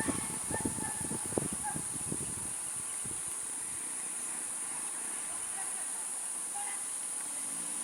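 Insects chirring in a steady, high-pitched chorus, with a few knocks and short calls in the first couple of seconds.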